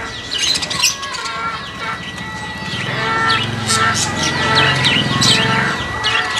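Many birds chirping and calling in quick, repeated high notes, over a thin steady high tone. From about three seconds in, a louder low, pulsing sound joins them and stops near the end.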